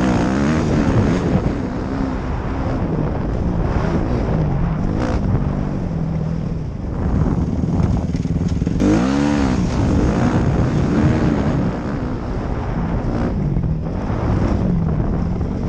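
Dirt bike engine being ridden hard, its pitch repeatedly rising and falling with throttle and gear changes, with a sharp rev about nine seconds in. Wind rushes over the microphone throughout.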